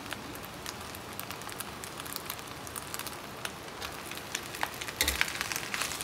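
Fried rice sizzling and crackling in a hot wok. About five seconds in a spatula bumps and starts stirring and scraping through the rice, and the sound gets louder.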